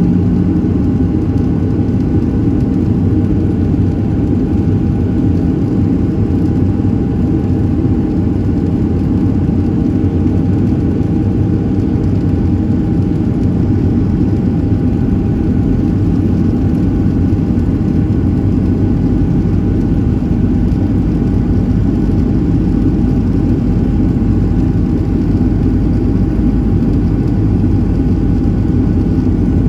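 Boeing 737-700 cabin noise in flight: the steady, loud rumble of its CFM56-7B turbofan engines and the air rushing past the fuselage, with a faint steady whine above it.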